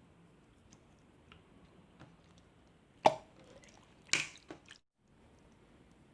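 Slime being handled: faint sticky clicks and squishes, a sharp pop about three seconds in, and a louder wet squelch about a second later.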